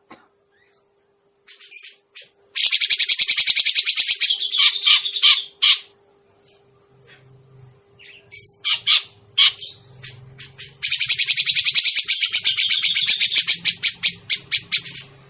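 Grey-cheeked bulbul (cucak jenggot) lure call: rapid chattering runs of high, evenly repeated notes, one short run about three seconds in and a longer run of about four seconds near the end, with scattered single notes and short phrases between.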